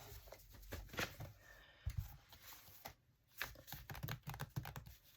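Paper and cardstock pieces rustling and sliding as a cluttered craft desk is rummaged through, with scattered taps and a few soft knocks of objects being moved.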